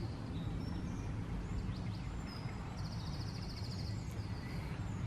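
Woodland birds singing: short high whistles and chirps, with one fast, high trill lasting about a second near the middle. Under them runs a steady low rumble.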